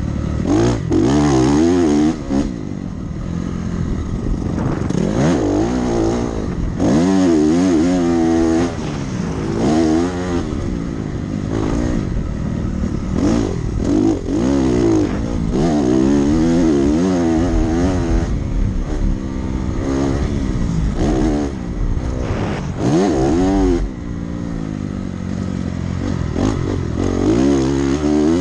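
Dirt bike engine under hard throttle, its pitch climbing and dropping again and again as it accelerates, shifts gear and backs off.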